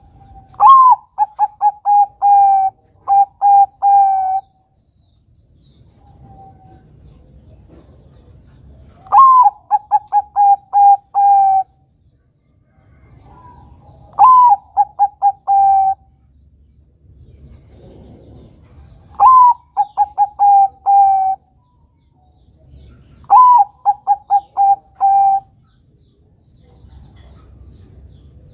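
Perkutut (zebra dove) of the Bangkok type singing its cooing song five times. Each phrase opens with a high rising note, runs into a string of quick short coos, and ends on a few longer held notes.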